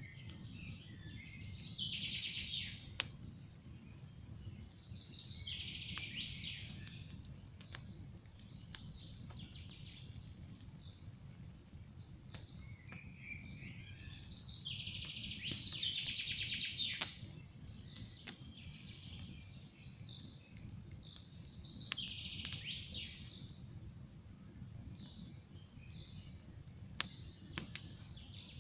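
Campfire crackling with scattered sharp pops over a steady low rush of the flames, while a songbird sings four phrases of about two seconds each, several seconds apart.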